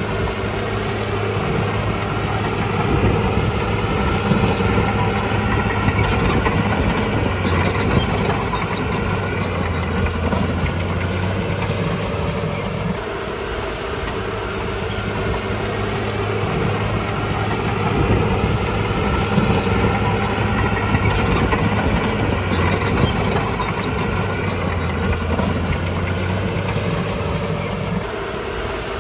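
Komatsu D51PX crawler bulldozer's diesel engine running under load, swelling in loudness twice as it works, with a few short metallic clanks.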